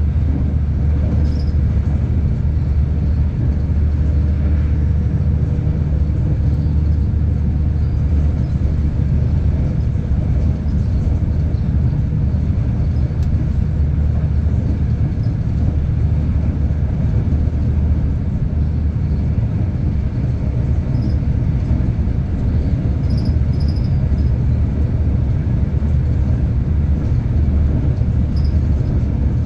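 Passenger train running at speed, a steady low rumble with a constant hum underneath, heard from aboard the train.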